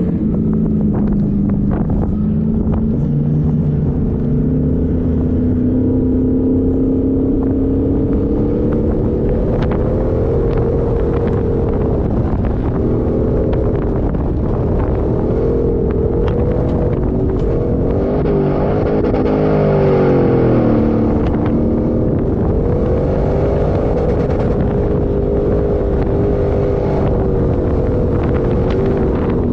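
An off-road 4x4's engine running under load, its revs rising and falling in slow swells, with a deeper dip and climb about two-thirds of the way through, over a steady low rumble.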